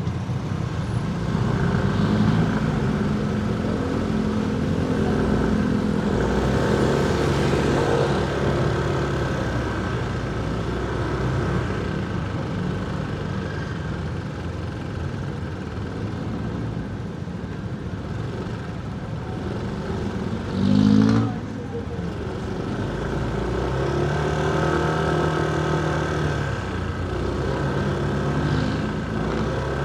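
Motorcycle engine running through city traffic, its pitch rising and falling as the bike speeds up and slows. About two-thirds of the way through there is a brief, louder sound rising in pitch.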